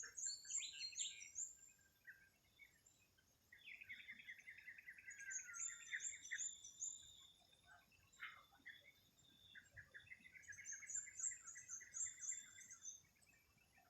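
Songbirds singing faintly: a high twittering phrase repeated three times, about every five seconds, and a lower, rapid trill heard twice, in the middle and near the end.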